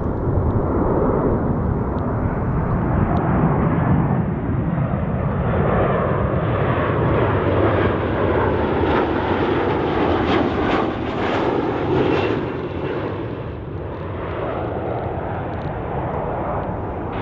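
Boeing 737 jet airliner on landing approach, flying past close by. The engine rush builds as a tone slides steadily down in pitch. The sound is loudest and sharpest about two-thirds of the way through, then eases off.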